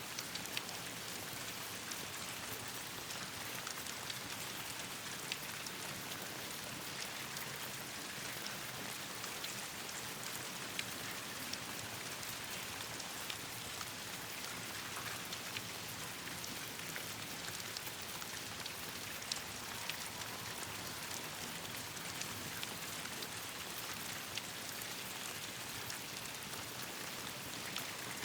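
Steady rain falling on leaves and the ground, an even hiss with scattered sharp ticks of single drops.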